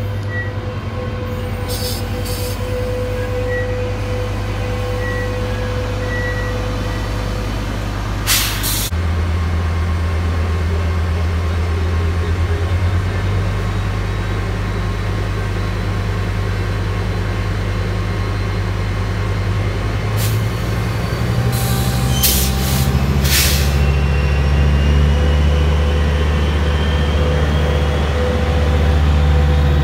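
Metrolink commuter train pulling out, pushed by its F125 diesel locomotive: the engine's low drone steps up as it throttles up, and a whine rises steadily in pitch near the end as the train gathers speed. A few short hisses of air cut in, once about eight seconds in and again around twenty-two seconds.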